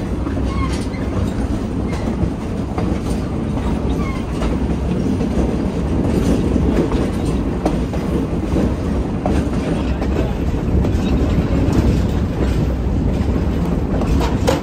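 Moving train heard from a caboose's open end platform: a steady rumble of steel wheels on the rails, with irregular clicks and clacks over the track.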